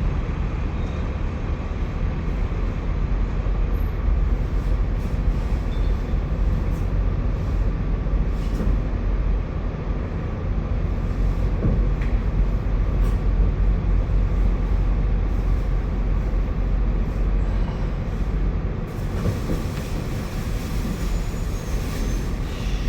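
Steady low rumble of a large diesel engine running at idle, as of a truck idling close by, with a few faint knocks and scrapes over it.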